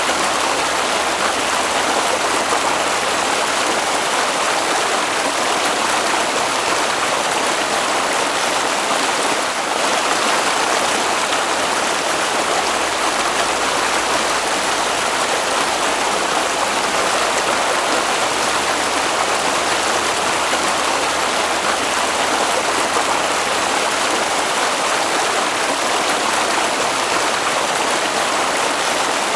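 A stream of water flowing, a steady even rush that does not change.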